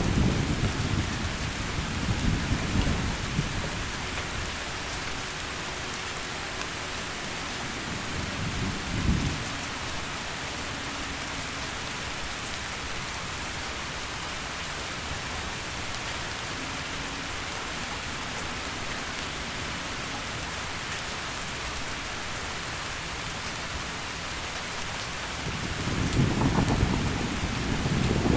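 Heavy rain falling steadily, with low rolls of thunder: one fading over the first few seconds, a short one about nine seconds in, and another building near the end.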